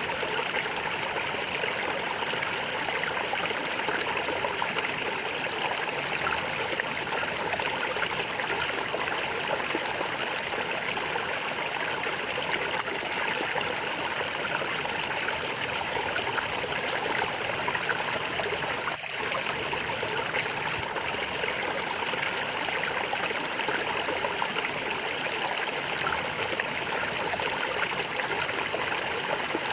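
Running water gurgling and trickling in a steady flow, with a momentary dip in the sound about two-thirds of the way through.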